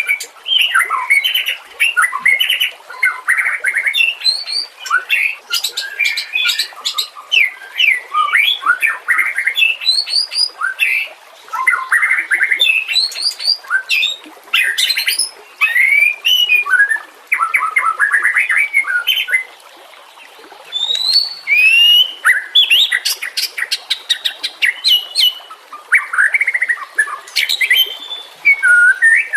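White-rumped shama (murai batu) singing: a fast, varied run of whistles, sweeping notes and rattling trills, with a short pause about twenty seconds in.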